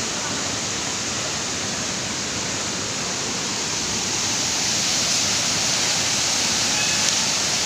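Waterfall pouring: a steady rush of falling water that grows a little louder about halfway through.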